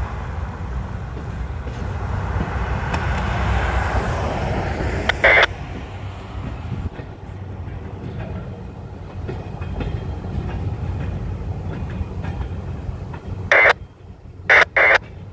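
Freight train cars rolling past on the rails with a steady low rumble that eases off after about five seconds as the train moves away. Short, loud bursts of scanner-radio squelch cut in once about five seconds in and three times near the end.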